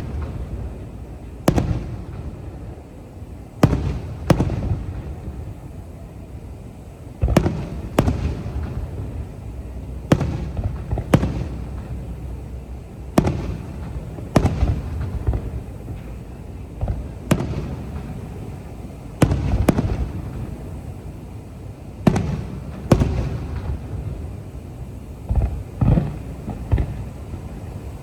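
Aerial fireworks bursting: sharp booms every second or two, each followed by a long rumbling echo, with crackling between them.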